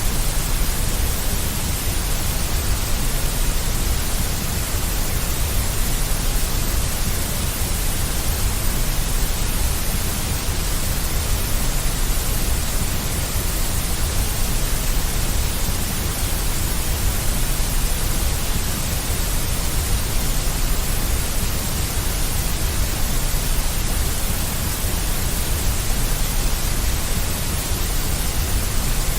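Steady, unchanging generated white noise: a deep rumble beneath an even hiss.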